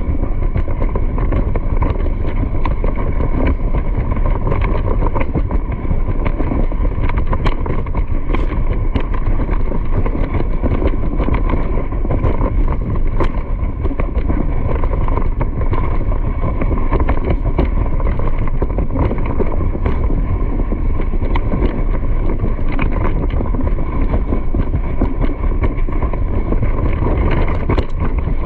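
Steady running noise of a moving vehicle, with wind buffeting the microphone.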